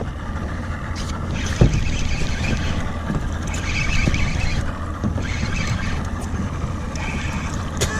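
Boat motor running steadily at trolling speed, a low rumble under wind buffeting the microphone, with a single knock about a second and a half in.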